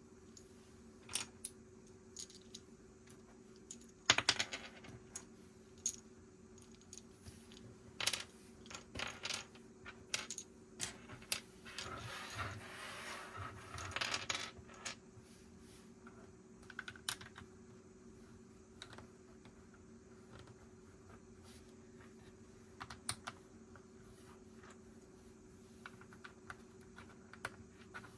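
Plastic Lego pieces clicking and clattering as they are handled and pressed together, in irregular clicks. About twelve seconds in there is a few-second stretch of denser rattling. A faint steady hum runs underneath.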